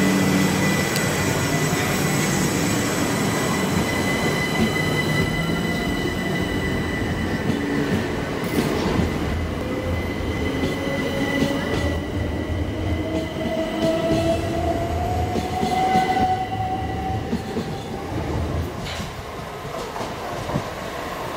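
A Southern electric multiple unit train pulling away close by, its wheels running on the rails with steady high-pitched whines over them. A motor whine rises in pitch through the middle as the train gathers speed, and the whole sound slowly fades as it moves off.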